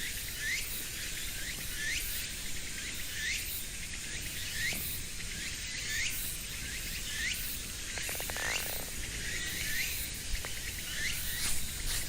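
An animal chirping outdoors: a short rising note repeated about once a second, over a steady low background rumble.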